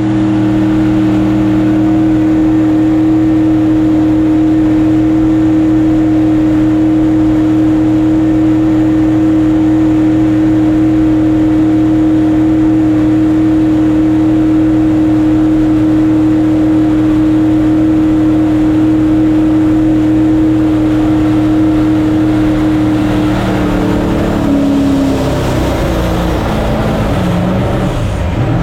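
Mini jet boat's engine running at a steady pitch, then the pitch wavers and drops about twenty-three seconds in as it comes off the throttle, with a rushing noise rising near the end.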